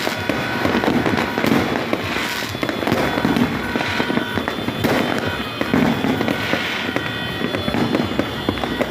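Fireworks going off continuously: a dense, unbroken run of overlapping bangs, pops and crackling.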